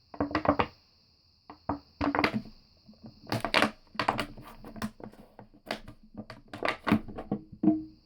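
A bottle being squeezed and crushed by hand, making an irregular run of sharp crackles and pops.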